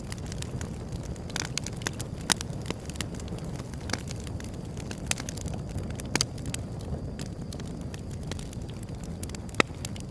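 Wood fire burning with a low steady rush and irregular sharp crackles and pops, the loudest near the end.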